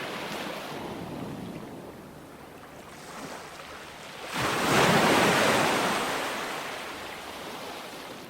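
Ocean surf washing onto a beach: the wash dies down, then a wave breaks with a loud surge about four seconds in and slowly drains away.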